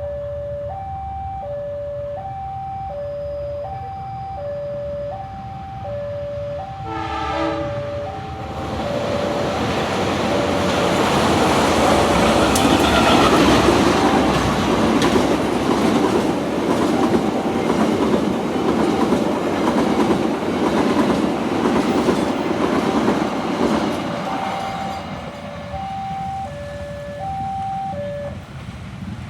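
Level-crossing warning bell ringing in an alternating two-tone pattern, about one cycle a second. A short diesel train horn blast comes about seven seconds in, then the Fajar Utama Yogyakarta passenger train rushes past with wheels clattering over the rail joints for about fifteen seconds. The bell rings on after it and stops near the end.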